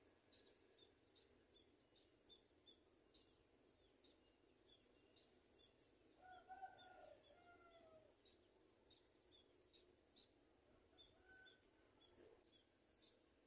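Faint, steady run of short high bird chirps, about two or three a second. About halfway through, a lower call of two or three gliding notes is heard.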